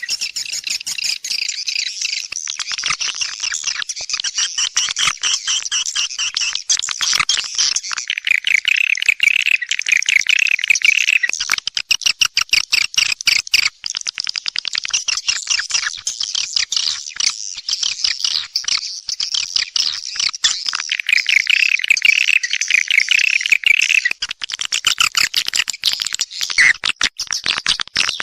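Swiftlets twittering in a dense, unbroken chatter of rapid buzzy chirps and trills. It is a swiftlet call recording, the kind played to lure edible-nest swiftlets into a nesting house.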